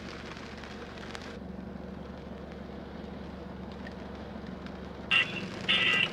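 Rain falling on a parked car, heard from inside it, as a steady hiss over a low steady hum; the hiss turns duller a little over a second in. About five seconds in it cuts suddenly to louder, choppy sound inside the car.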